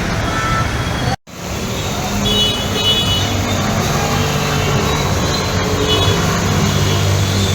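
Road traffic: vehicle engines running under a steady wash of noise. The sound cuts out abruptly for a moment about a second in, then returns.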